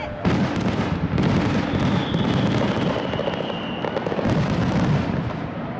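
Aerial fireworks going off in a rapid, continuous barrage of bursts and crackling: the closing volley of the display.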